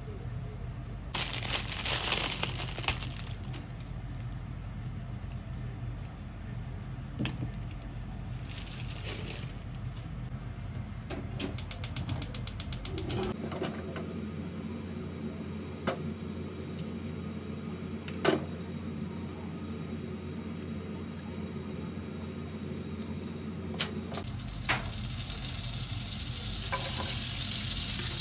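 Crinkling plastic packaging being handled, loudest in the first few seconds, then a quick run of rapid clicks. About 25 s in, a steady sizzle starts as green vegetable stems fry in butter in a nonstick frying pan.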